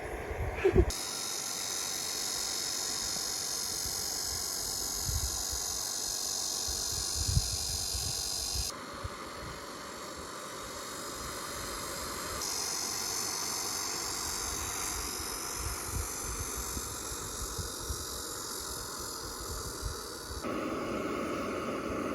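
Cicadas buzzing steadily in a high, shrill chorus, changing abruptly a few times as the scene cuts and dropping out about 20 s in. A short knock sounds just under a second in, with a few low bumps later.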